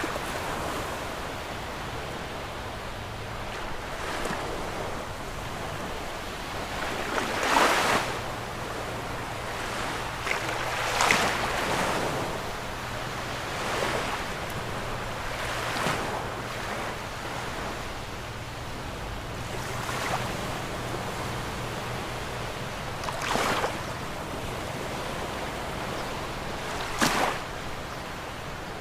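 Sea waves breaking on a beach: a continuous wash of surf with a louder crash every few seconds.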